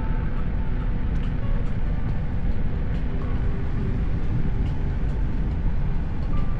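Steady low rumble of wind buffeting the camera microphone and road noise while riding a Kugo Kirin U2 (KingSong 16S) electric unicycle.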